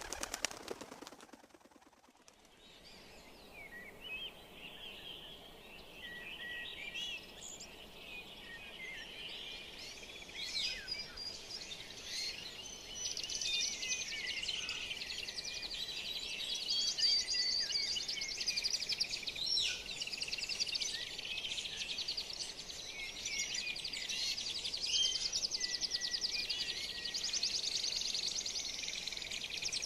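Chorus of many birds chirping, whistling and trilling together, starting faint and growing fuller a few seconds in.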